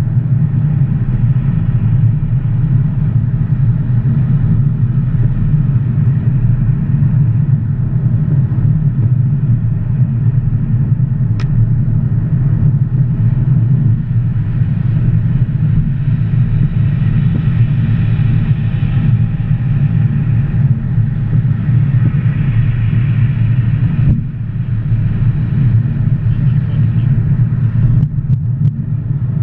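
Audi B8 S4's supercharged 3.0-litre V6 through a Scorpion cat-back exhaust, running at steady engine speed with an even, low rumble; the level dips briefly once near the end.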